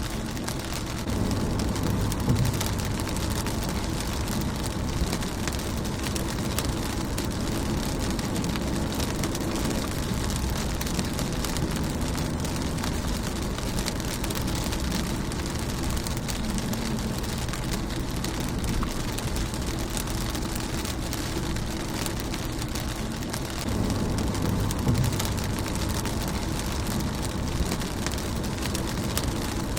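Steady rain pattering on a car's windshield, with many fine drop ticks. A low rumble swells briefly about a second in and again near the end.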